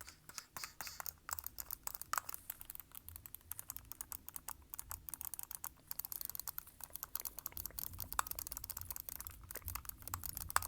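Fast, uneven fingertip and fingernail tapping and clicking on objects held close to the microphone, many sharp taps a second.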